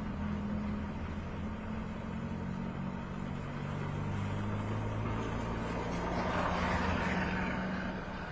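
A motor vehicle engine running with a low hum that shifts in pitch, and a louder rush of noise swelling and fading about six to seven seconds in.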